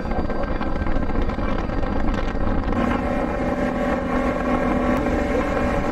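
Tour boat's engine running steadily while under way, with wind buffeting the microphone.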